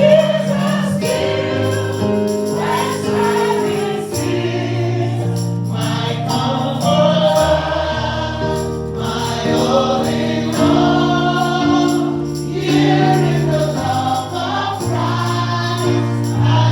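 Gospel music: a choir singing over sustained chords.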